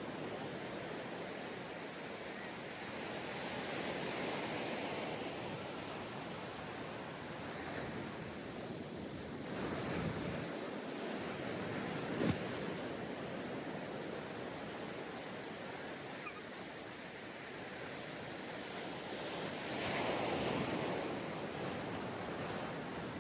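Ocean surf washing onto a sandy beach, with waves breaking and swelling every several seconds over a steady rush of water. A brief sharp knock sounds about halfway through.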